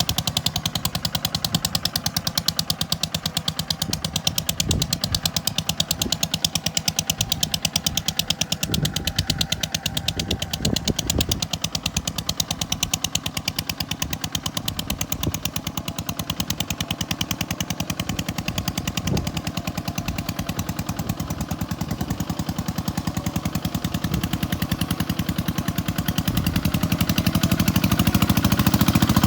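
Kubota tractor's diesel engine running at low revs, a rapid, even firing clatter that grows louder near the end.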